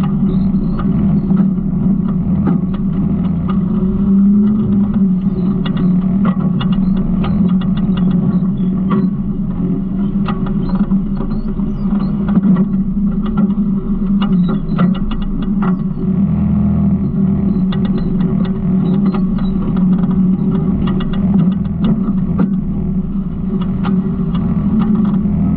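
Garbage truck engine running steadily, with frequent light knocks and rattles throughout.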